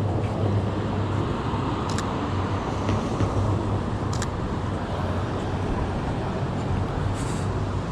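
Street traffic noise: a steady rumble of passing cars with a low hum under it, and two sharp clicks, about two and four seconds in.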